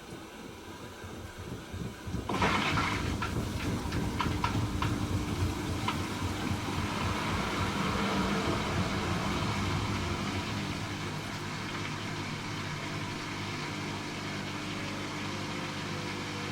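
Hoover H-Wash 300 Plus washing machine during its rinse programme: after a faint water hiss, the drum motor starts about two seconds in with a few clatters and then turns the drum with a steady hum.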